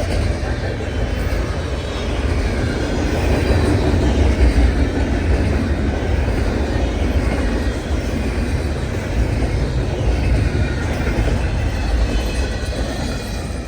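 Freight cars of a long CN freight train rolling steadily past at close range: a continuous heavy rumble of wheels on rail, with clacking over the joints and faint high wheel squeal.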